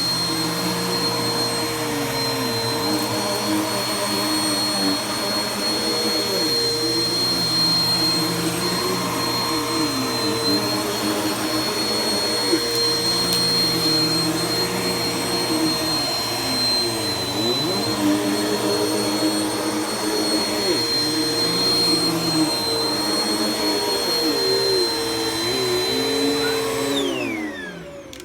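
Vacuum cleaner running with a steady high whine, its lower motor note dipping briefly every few seconds. Near the end it is switched off and winds down, the pitch falling away.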